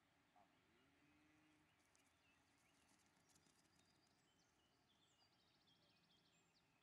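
Near silence outdoors, with faint birds chirping and trilling in the background.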